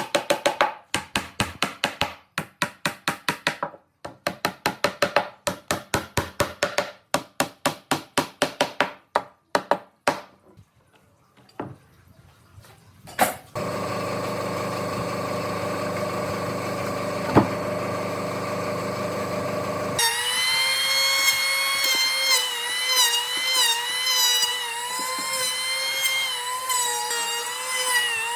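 Woodworking tools at work: about ten seconds of rapid, evenly repeated strokes, then a power tool running steadily from about halfway through, its whine wavering in pitch as it works under load.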